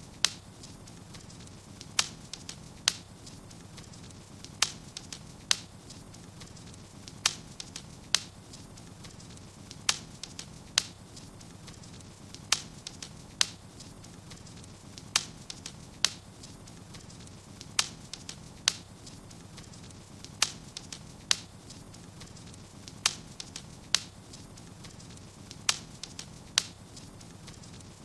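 Wood fire in a fireplace crackling, with sharp pops that come in pairs about a second apart and repeat at an unusually even pace of roughly every two and a half seconds, over a faint low steady hum.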